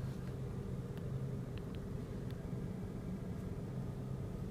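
Steady low hum of the Chevrolet Sonic's turbocharged engine idling, heard from inside the closed cabin, with a couple of faint ticks about a third of the way in.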